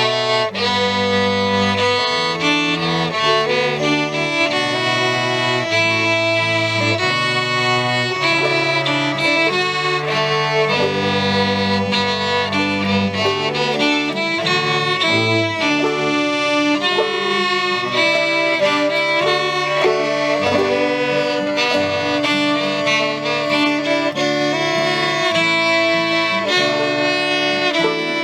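Live acoustic instrumental fiddle tune: a fiddle plays a quick, busy melody over a steady lower accompaniment, with no singing.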